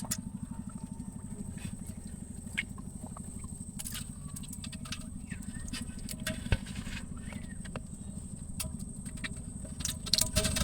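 Freshly caught small fish and shrimp flapping in a net, heard as light scattered taps and flicks at irregular moments, over a steady low rumble.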